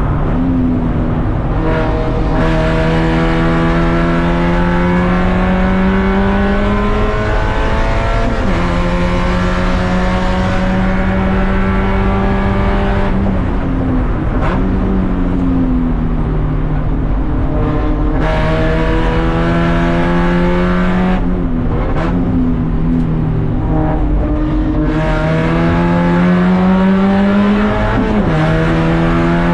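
A race car's engine, heard from on board, pulling hard through the gears. The engine note climbs steadily with the revs and drops sharply at each of several gear changes.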